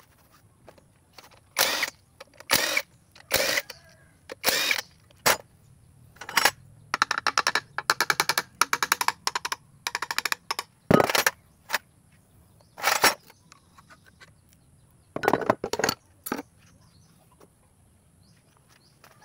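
Metal clanks and short scrapes of hand tools and engine parts during an engine teardown, with a run of rapid clicking from about seven to ten seconds in, then quieter for the last few seconds.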